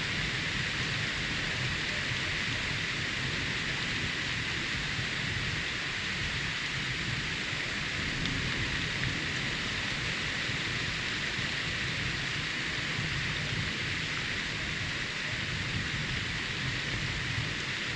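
Steady rain falling during a thunderstorm, an even hiss with no distinct thunderclap.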